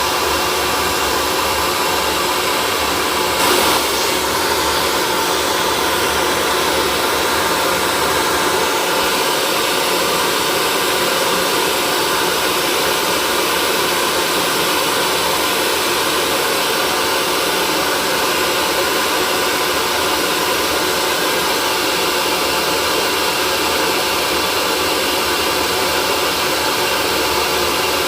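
Hair dryer running steadily: a continuous, even rush of air with a faint motor hum underneath, briefly a little louder about three and a half seconds in.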